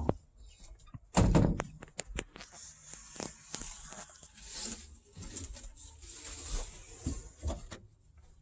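A loud thunk about a second in, followed by scattered clicks, knocks and rustling as pieces of plastic pipe and fittings are handled.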